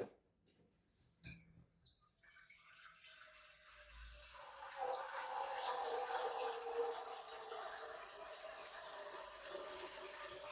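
Water running steadily after a click. It builds up about two seconds in, with a faint tone that falls slightly in pitch, and cuts off suddenly at the end.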